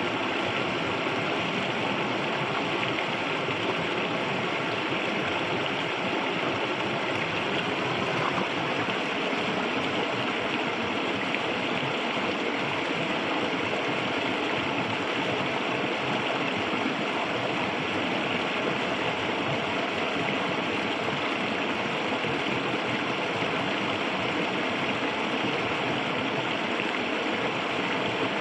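Shallow clear river flowing steadily, a constant rushing and gurgling of water over stones.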